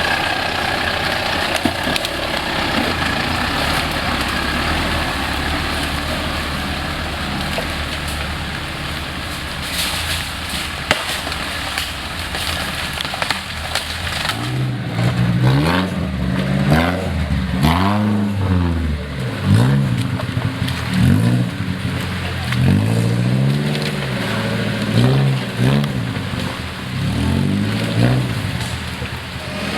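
Off-road 4x4's engine running at a steady pitch under a rough, noisy wash. About halfway through it starts revving up and down over and over, a rise and fall every second or two.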